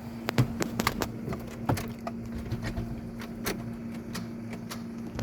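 Isuzu D-Max starter solenoid clicking irregularly over a steady low hum as the key is turned, with no cranking: the sign of a bad starter solenoid. The clicks are sharpest near the start and about a second and a half in.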